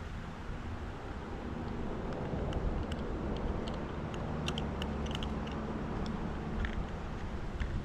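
A motor vehicle driving past, its low engine and road hum swelling for several seconds and then easing off, with scattered light clicks and taps over it.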